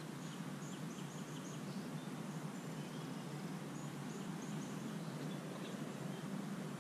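Outdoor park ambience: a steady low background rumble, with a small bird's short high chirps in quick runs, near the start and again about four seconds in.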